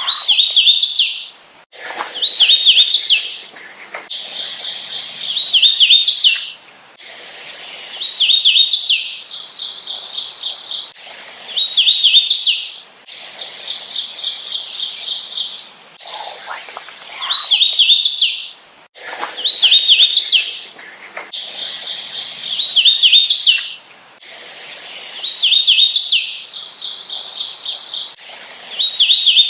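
Hooded warbler singing its song over and over, roughly once every two to three seconds. Each song is a run of clear, slurred whistled notes that ends in a higher flourish.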